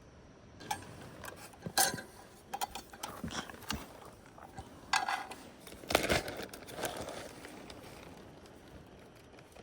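Camp cookware and utensils being handled: a string of clicks, clinks and knocks, with a brief ring about five seconds in and the loudest knock about a second later.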